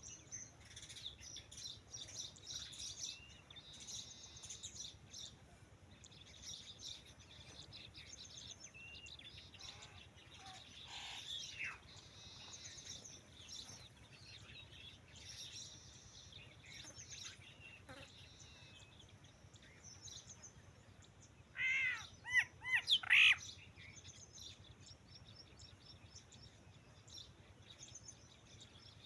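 Birds chirping and calling in the open, many small high chirps throughout. About three quarters of the way through comes a louder call of several quick, repeated notes.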